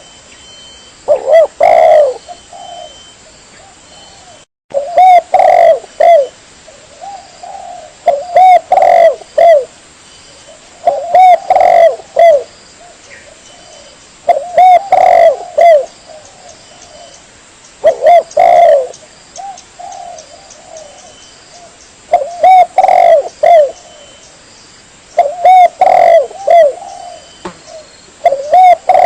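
Spotted dove (tekukur) cooing: a short phrase of several low coos repeated about every three seconds, the kind of call used to lure wild doves. The sound cuts out briefly about four and a half seconds in.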